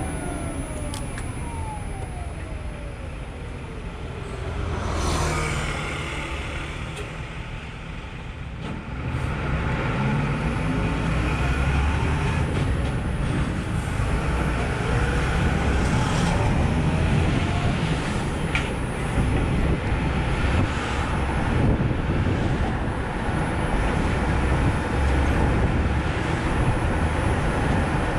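Road and tyre noise of a Nissan Note e-POWER driving on city streets, with a falling whine in the first few seconds, a swell of noise about five seconds in, and a louder steady rumble from about ten seconds on as it picks up speed.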